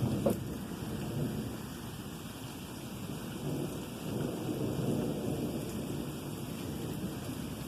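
Rolling thunder rumbling continuously in slow swells over steady rain, with one sharp tap just after the start.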